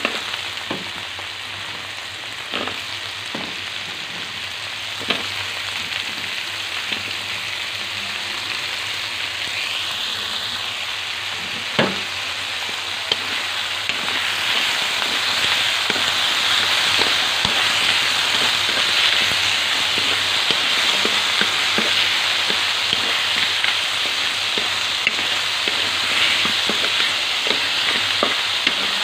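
Balay shells frying in a wok with onion, tomato and ginger: a steady sizzle that grows louder about halfway through. A wooden spatula stirs, scraping and knocking against the pan now and then, the loudest knock a little before the middle.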